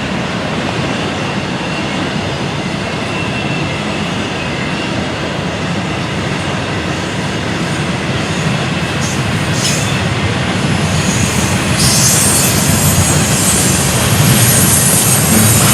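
A train rolling past close by with a steady rumble that slowly gets louder. About twelve seconds in, a high hiss joins it and becomes the loudest part.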